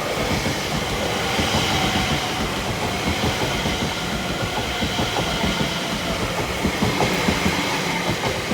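Greater Anglia class 720 electric multiple unit passing through the station at speed, wheels running over the track with a faint steady high whine.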